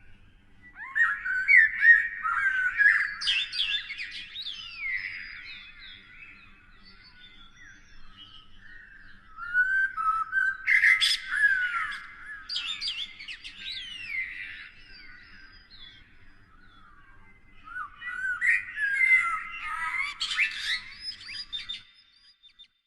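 A songbird singing three long, varied phrases of quick rising and falling notes, each lasting about four to five seconds, with short pauses between them.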